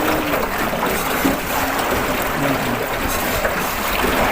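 Steady rushing noise of a small rowed boat moving on river water, with water washing along the hull and no breaks.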